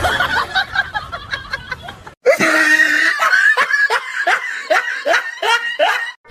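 Person laughing in quick repeated bursts, about four a second. The sound cuts off abruptly about two seconds in, and the laughter resumes after the break.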